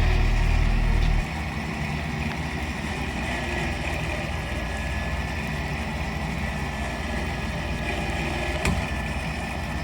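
An Open Road 13,000 lb electric winch drones under load as it pulls the stuck truck free, then cuts off abruptly about a second in, leaving a vehicle engine idling steadily. A single short knock comes near the end.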